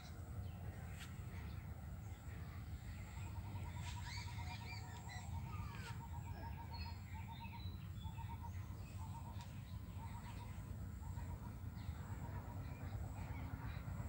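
Outdoor ambience of wild birds calling over a low steady rumble: scattered short chirps, and through the middle a long run of quick, evenly repeated notes.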